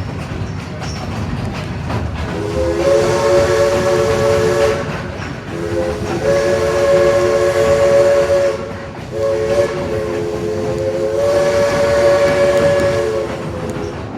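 Steam locomotive No. 16's chime whistle blown in several long, three-note blasts with short breaks, over the rumble and clickety-clack of the moving train.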